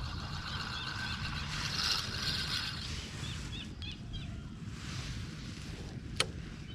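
Birds chirping repeatedly in short notes over a steady low rumble, with one sharp click near the end.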